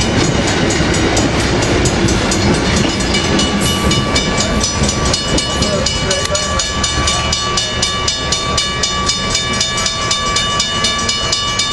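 Amtrak passenger train pulling out and rolling past at close range: the cars' wheels click steadily over the rail joints over a constant rumble, with a steady high tone rising out of it from about four seconds in.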